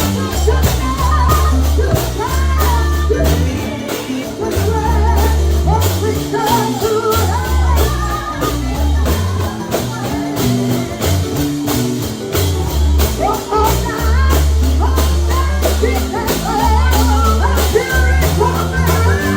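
Live gospel singing with a band: voices carrying the melody over a deep bass line and a steady percussion beat that sounds like a tambourine.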